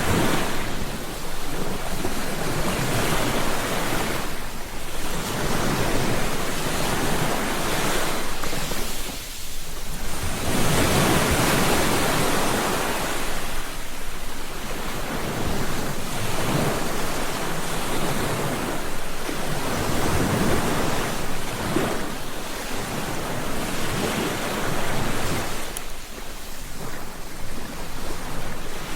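Ocean surf breaking on a beach: waves swell and wash out in a rhythm, one every four to five seconds.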